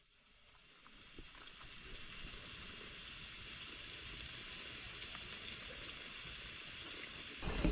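A steady hissing noise that fades in over the first couple of seconds, then holds even; music comes in near the end.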